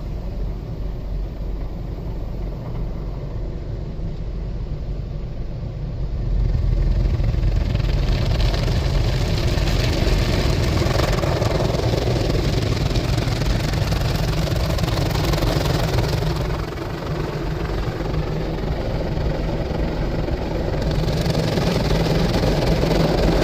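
WashTec SoftLine 2 tunnel car wash at work: the soft cloth brushes and water spray swish over the car above a steady low rumble. The washing noise swells about six seconds in, eases around sixteen seconds and builds again near the end.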